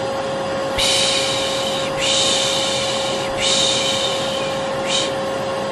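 Vacuum cleaner motor running with a steady hum, under a person's rhythmic 'shh, shh' shushing: three long shushes in a row, each about a second and a half, then a short one near the end. This is white-noise shushing meant to soothe a baby to sleep.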